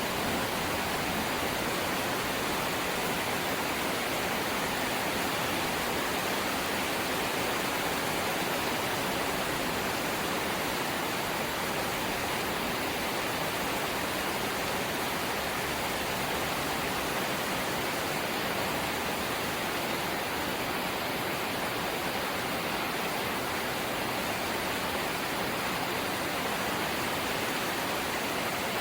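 Rain falling steadily on a corrugated zinc sheet roof, a dense, even hiss with no single drops standing out.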